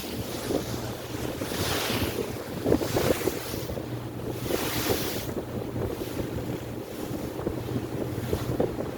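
Ferry under way: its engine drones steadily and low beneath wind buffeting the microphone and water rushing past the hull, the wind swelling in gusts a couple of times.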